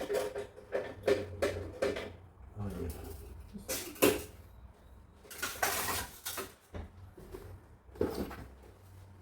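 Hard objects being handled: a quick run of knocks and clinks, about two a second, over the first two seconds, then scattered knocks and a longer scraping rush about five and a half seconds in.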